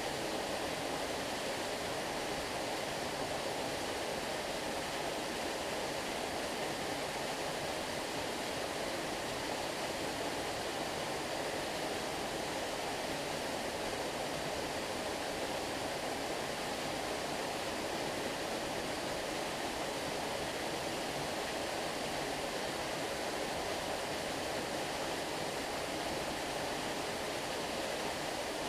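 Flowing stream water rushing steadily, an even, unchanging wash of water noise.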